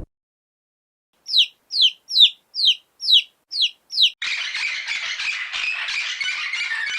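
A bird calls seven times in quick succession, each note sliding down in pitch. About four seconds in, a dense, noisy din of many bird calls takes over.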